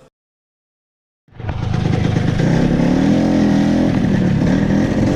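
A Vespa scooter's two-stroke engine fades in about a second in, after a moment of silence, and then runs steadily, its pitch wavering a little.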